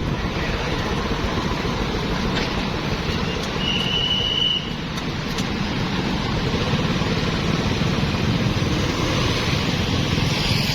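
Road traffic of motorbikes, cars and tuk-tuks going past in a steady stream of engine and tyre noise, with a brief high-pitched tone about four seconds in.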